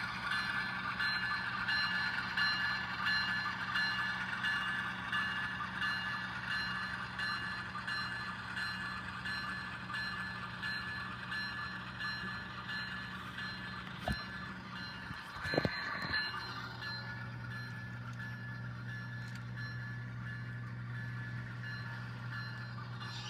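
An HO scale NS 8103 model locomotive's sound decoder playing a diesel locomotive bell ringing steadily through its small speaker, over a low diesel engine rumble. Two sharp clicks come past the middle, and the low engine hum grows stronger after them.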